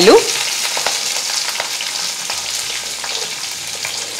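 Hot oil and ghee sizzling with small, steady crackles as freshly added sliced onions fry with green chillies and whole spices in a kadai, the start of sautéing a pulao base.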